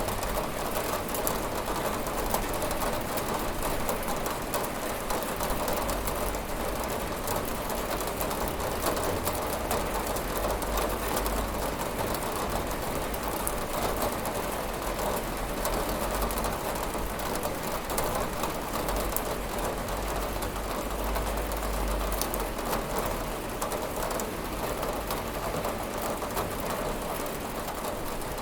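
Steady rain pattering on a window pane, a dense even hiss of many small drop ticks, with a faint low rumble underneath that swells and fades several times.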